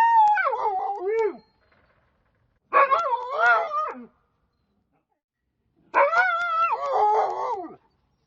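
Dog howling: three drawn-out wavering calls, each about a second and a half long and sliding down in pitch at the end, with short silences between them.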